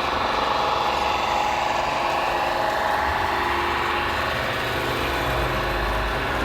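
Steady whine of radio-controlled model construction machines running, their small electric motors and hydraulic pumps giving many steady tones together, with a low rumble rising near the end.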